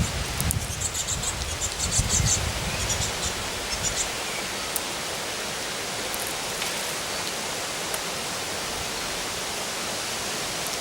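A few short, high bird chirps in the first three seconds, over a low rumble, then a steady rushing noise.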